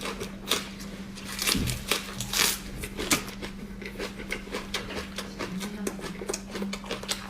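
Close-miked eating: irregular wet clicks and smacks of chewing, several a second, over a steady low hum.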